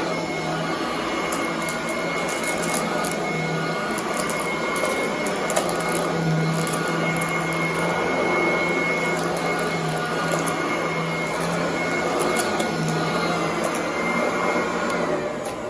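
Commercial upright vacuum cleaner running on carpet: a steady motor whine with scattered crackles. Near the end the motor is switched off and its whine falls in pitch as it spins down.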